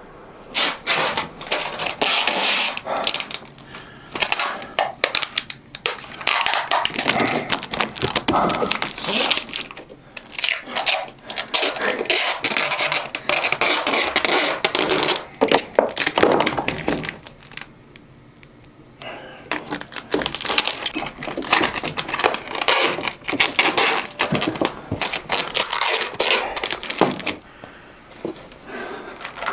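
Dense rustling and crinkling of some material being handled, in two long stretches with a pause of about two seconds in between.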